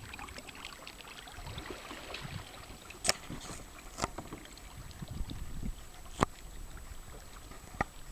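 Kayak being paddled: paddle blades dipping and swishing through the water, with four sharp knocks spread across the stretch.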